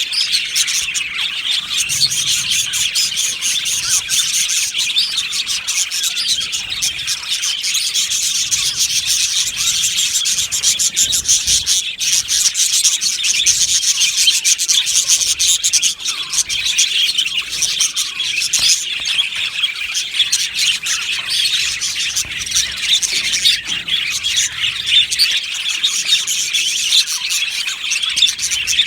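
Many budgerigars chattering and chirping at once, a dense, unbroken warble of overlapping high chirps.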